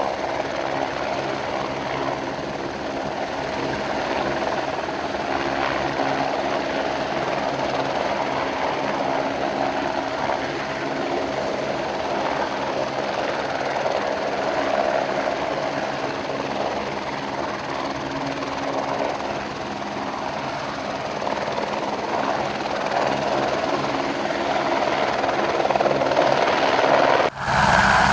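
Helicopter turbine and rotor running steadily. Near the end it breaks off abruptly and a louder helicopter sound takes over.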